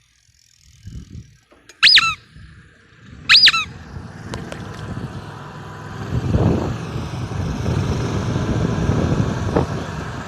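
Two short, high-pitched brake squeals about a second and a half apart. They are followed by the low rumble of road traffic, which grows louder from about six seconds in.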